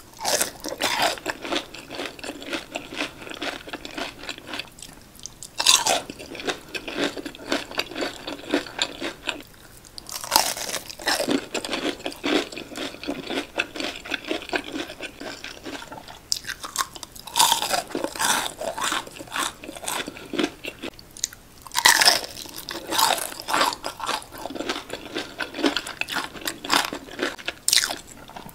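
Bites into crispy breaded fried fish sticks, close to the microphone, each bite a loud crunch, followed by steady crunchy chewing of the fried coating. A fresh bite comes about every five seconds.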